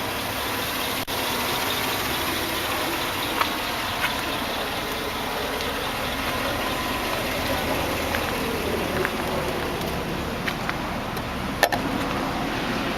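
Steady background motor-vehicle noise, a continuous engine-like hum, with a few short light clicks.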